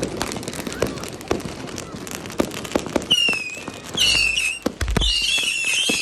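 Diwali firecrackers going off in a rapid string of sharp cracks. From about halfway through, high wavering whistles rise over a dense crackle, with one deep boom near the end.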